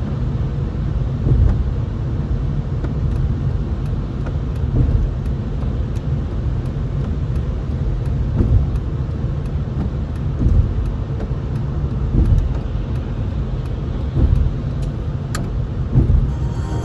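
Car driving: a steady low rumble of road and engine noise, with a few light knocks.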